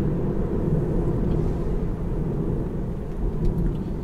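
Steady low road and tyre rumble of a Tesla Model 3 cruising on rain-wet roads, heard inside the cabin.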